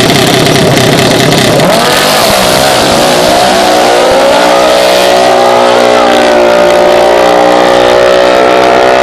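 Small racing mini bike engines running loud; about two seconds in their pitch sweeps up, then holds high and steady at full throttle.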